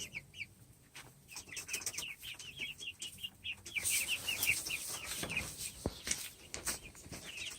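A flock of chickens making rapid, high, short peeping calls while feeding, with scattered light clicks among them.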